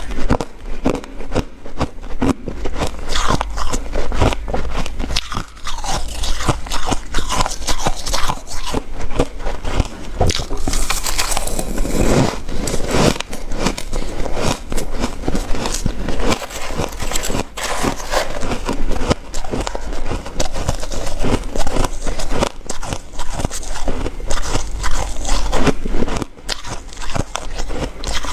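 Ice being bitten and chewed close to the microphone: a continuous run of crunching and crackling bites with no pauses.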